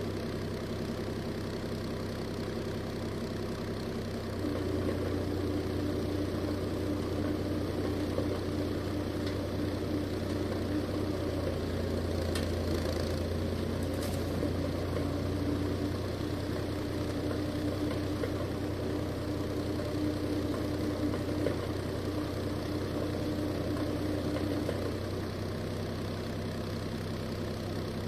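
Steyr 540 tractor's diesel engine running steadily, working harder about four seconds in, with the engine note rising and getting louder, and easing back near the end.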